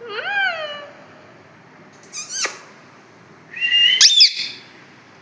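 Pet parrot giving three short calls: a call that rises and then falls, a sharp downward squeak, then a call with quick upward sweeps.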